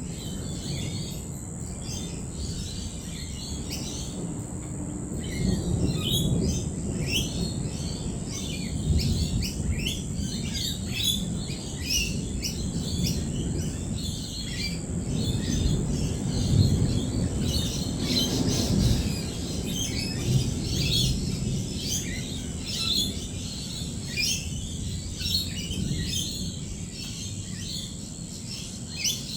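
A flock of lorikeets chirping and calling in many short, overlapping notes, under a low rolling rumble of distant thunder that swells a few times, most strongly past the middle.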